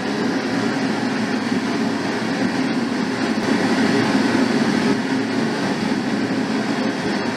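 Steady pink noise from a test loudspeaker, the signal for a sound insulation test of a partition.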